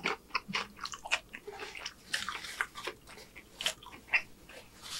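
Close-miked chewing with irregular wet mouth clicks and lip smacks from a person eating pepperoni.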